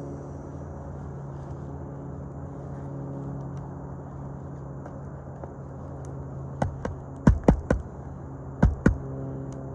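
A steady low hum, then from about two-thirds in several sharp strikes in quick groups of two or three: hammer blows on roofing nails during a shingle repair.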